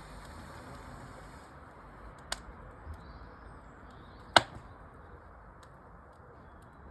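Wood fire in a fireplace crackling over a steady low hiss, with two sharp pops, the louder one about four seconds in.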